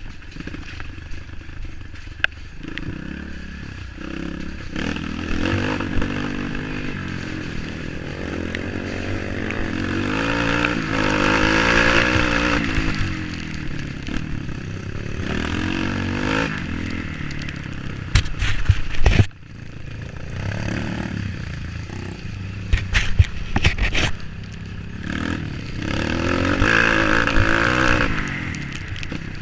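Off-road motorcycle engine revving up and down repeatedly as it rides over rough trail, with bursts of clattering knocks twice in the second half.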